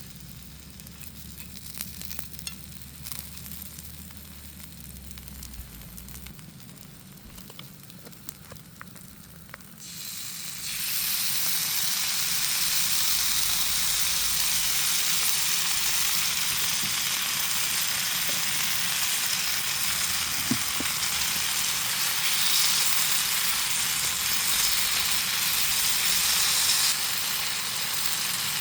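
Food frying and sizzling in a hot pan, starting suddenly about ten seconds in and then running loud and steady. Before it, only faint scattered ticks.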